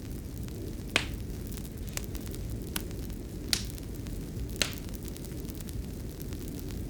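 Fireplace fire crackling: a steady low rumble of burning with sharp pops, about five of them, roughly one a second.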